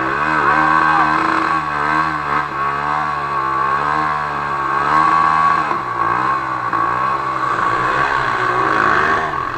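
Dirt bike engine revving hard, its pitch rising and falling continuously as the throttle works.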